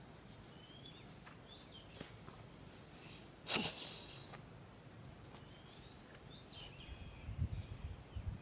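Small birds chirping with short, quick calls over a faint background hiss. There is one sharp, loud noise about halfway through, and low, irregular thuds near the end.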